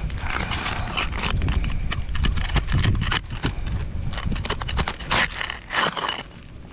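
A metal tool knocking and scraping against roof shingles and nails as it is worked in to pry a shingle loose. The clicks and scrapes come in a rapid, irregular run over a steady low rumble. The old shingles are tearing instead of releasing.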